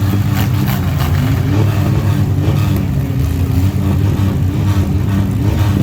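A vehicle engine running steadily with a deep, even rumble.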